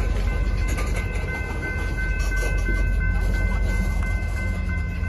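Train rolling slowly past, a steady low rumble with steady high-pitched tones over it.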